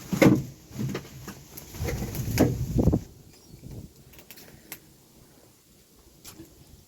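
A quick run of knocks and clunks, like hard objects being handled and set down, in the first three seconds, then a few faint sharp clicks.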